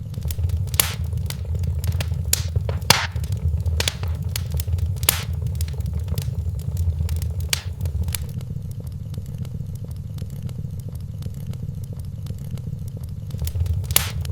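Wood fire burning in a fireplace: a steady low rumble with scattered sharp crackles and pops, busier in the first half and again near the end.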